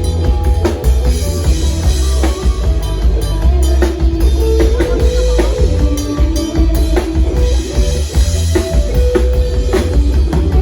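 Live band music played loud through a PA sound system: a drum kit keeping a steady beat over heavy bass, with a melody line on top.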